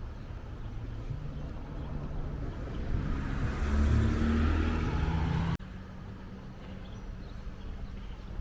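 A motor vehicle passing close by: its engine and tyre noise build to a loud peak, then cut off suddenly a little past halfway.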